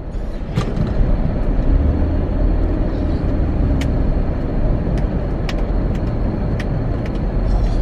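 Car cabin noise while driving: a steady low rumble of engine and road, with a few light clicks.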